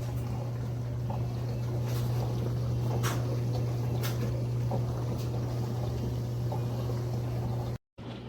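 COMFEE' portable countertop dishwasher running: a steady low motor hum with water spraying and trickling inside, and a few light clicks. The sound cuts out briefly near the end.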